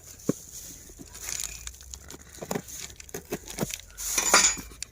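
Brake-pad box being handled and opened: scattered light clicks and taps of cardboard and contents, with a short rustle about four seconds in.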